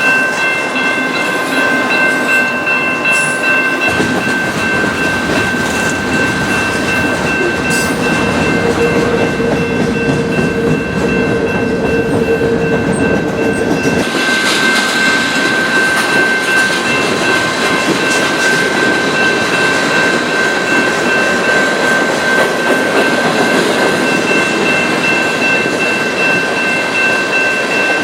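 A train rolling past close by: a steady rumble and rattle of railcars, with a high, steady squeal over it.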